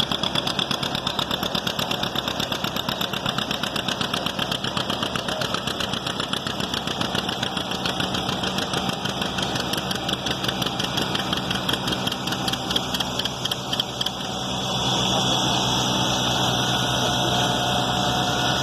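John Deere 60's two-cylinder engine running with a steady, even beat. About three-quarters of the way through it gets louder and smoother.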